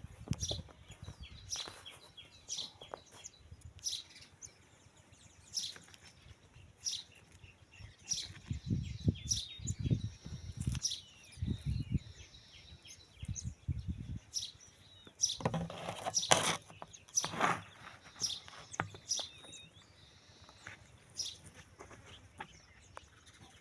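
Small birds chirping, many short high calls in a row, with low rumbling bursts about a third of the way in and a louder noisy burst about two-thirds through.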